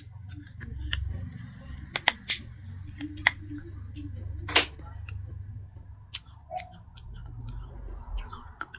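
Close-miked crunching of baked clay pot pieces being bitten and chewed: sharp, irregular cracks, the loudest about halfway through, over a low, steady rumble.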